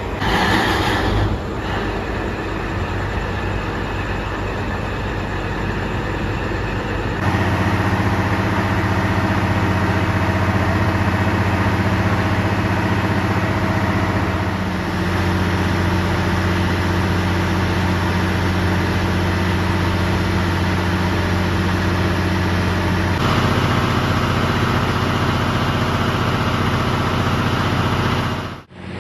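Diesel train engine idling with a steady low hum. A brief louder noise comes in the first second or so, the hum grows louder about seven seconds in, and it changes again later on.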